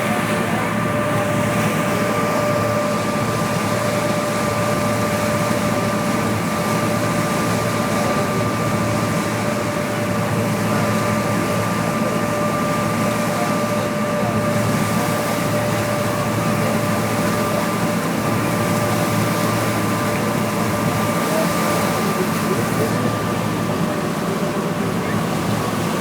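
A steady engine drone with a constant hum, over an even wash of noise.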